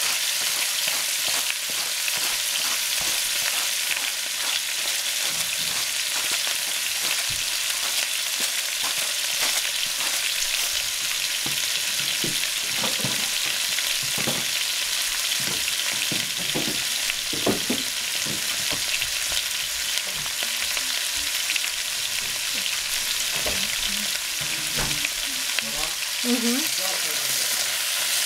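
Shredded cabbage frying in oil in a pot, with a steady sizzle. Near the end a wooden spatula stirs it.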